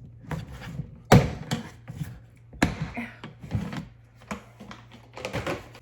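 Kitchen handling noises: a string of knocks and clunks, about four loud ones among lighter taps, as containers and a flour bag are handled and set down on the counter to refill the flour. A faint steady low hum runs underneath.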